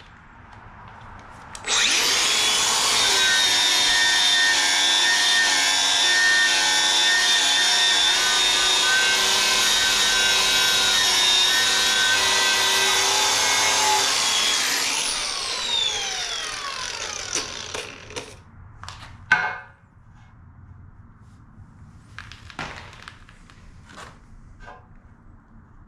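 A handheld angle grinder runs at full speed for about twelve seconds with a high steady whine, then is switched off and whines down as the disc slows. A few sharp knocks follow near the end.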